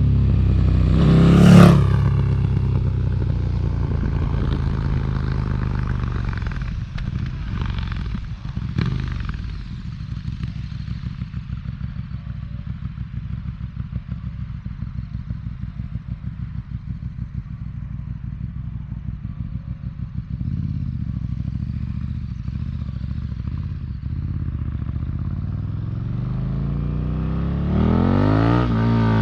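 KTM 1290 Super Duke R's V-twin engine through an Austin Racing V3 200mm exhaust. A sharp throttle blip comes about a second and a half in, then a few cracks as the revs drop, then a lumpy, uneven idle, and the revs rise again near the end.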